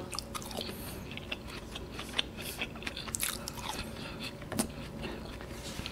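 Close-miked chewing of an air-fried chicken cheese ball, with many small, sharp mouth clicks and light crunches scattered through.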